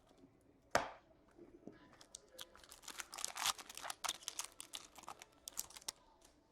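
A sharp click about a second in, then a few seconds of crinkling and tearing as trading card packaging is opened by hand.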